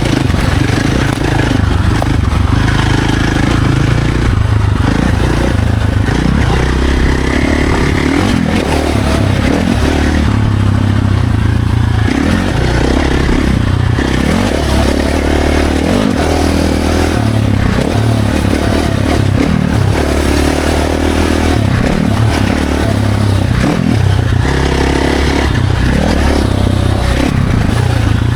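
Dirt bike engine running hard, its revs repeatedly climbing and dropping as the throttle is worked, with a continuous rushing noise over it.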